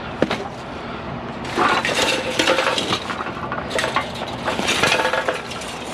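Small hard objects clinking and clattering against each other as a pile of discarded junk is rummaged through by hand, with irregular knocks and clinks.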